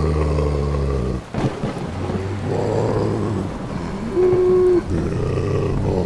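A zombie's growling moan, with a held groan just past the middle, over rain and rumbling thunder. A low steady drone cuts off about a second in.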